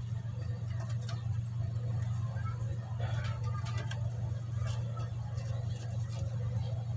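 A steady low hum, with faint light clicks and rustles scattered through it as braided PE fishing line is handled and knotted by hand.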